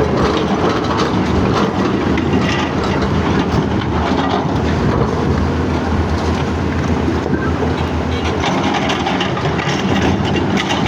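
Heavy diesel engine of a CAT excavator running steadily under load, with a continuous clatter of knocks and rattles from rock being handled.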